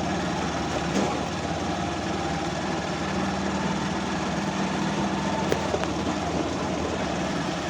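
An engine running steadily, with a couple of faint clicks.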